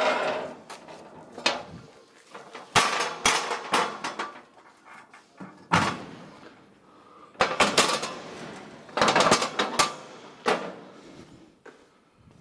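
A series of irregular knocks and clatters, some single and some in quick clusters, with quiet gaps between.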